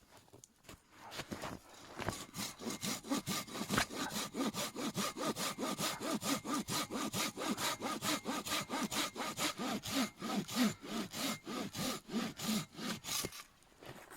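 Hand saw cutting through a log with fast, steady back-and-forth strokes, about four a second; it starts about a second and a half in and stops shortly before the end.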